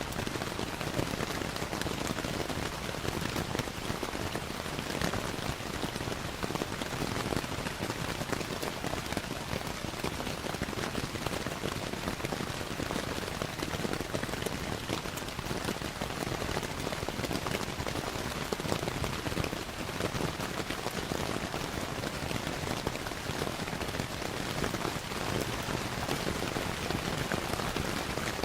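Steady rainfall, an even hiss of drops, with faint scattered crackles from a wood fire mixed in.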